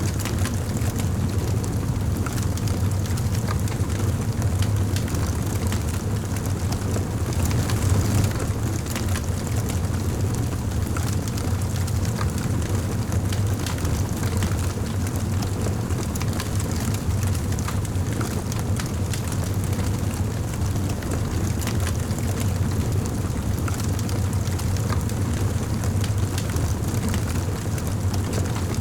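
Wood fire burning in a fireplace: a steady low roar of flames under constant small crackles and pops from the burning logs, with a slightly louder flare about eight seconds in.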